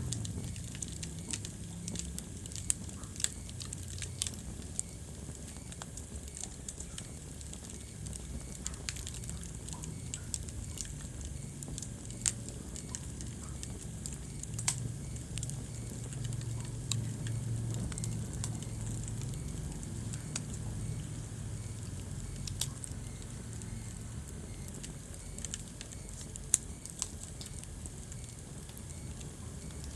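Wood fire crackling in a fireplace: irregular snaps and sharp pops, a few of them loud, over a steady low rumble.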